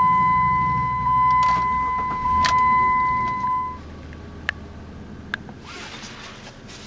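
A car's electronic warning chime sounds one steady high tone for about four seconds and then cuts off, likely the seatbelt reminder. Under it the Jeep Liberty's V6 idles with a low, quiet hum, with a couple of small clicks from the cabin.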